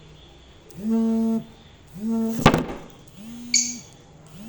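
A low, steady buzzing tone sounding in short pulses about once every second and a bit, with a sharp click about halfway and a short high chirp from a lovebird near the end.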